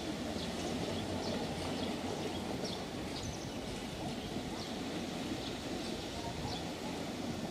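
Nankai electric train approaching at low speed, a steady low rumble from the track, with short high chirps now and then.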